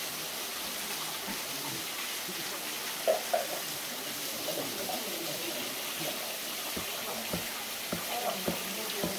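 Steady rushing of a small waterfall, with faint voices now and then in the background.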